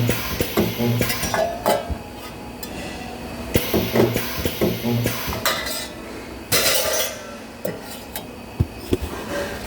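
Resistance spot welder firing in short low buzzes, two pairs of welds, amid metallic clanks and clinks of sheet-metal parts being handled. A brief hiss comes about two-thirds of the way through.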